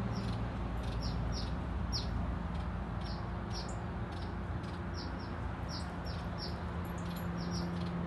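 Small birds giving short, high, downward-slurred chirps, about two a second, in the backyard trees, over a steady low hum.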